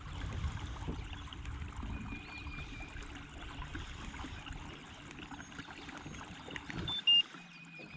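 Water trickling and lapping around a kayak, under an uneven low rumbling noise. About seven seconds in there is a brief high chirp.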